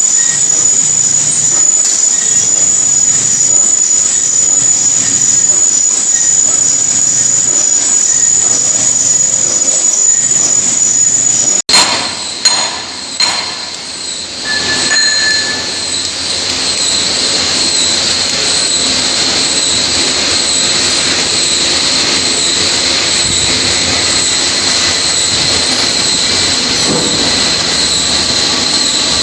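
Heavy-duty lathe cutting metal: a steady high-pitched squeal of the tool against the turning workpiece. About twelve seconds in it breaks off abruptly, a few sharp knocks follow, and then a steady squeal returns at a lower pitch.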